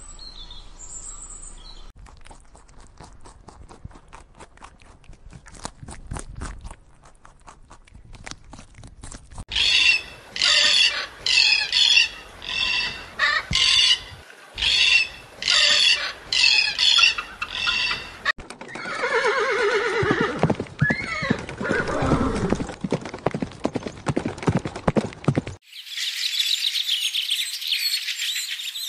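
Bald eagle calling: a fast run of high, piping cries, nearly two a second, then longer calls that slide down in pitch.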